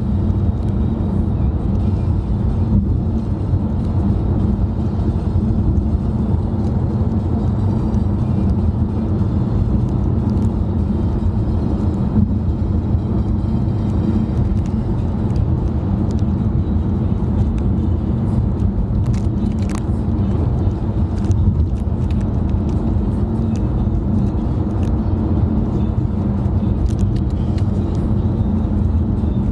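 Steady low road and engine rumble heard from inside a car cruising along, with no sudden events.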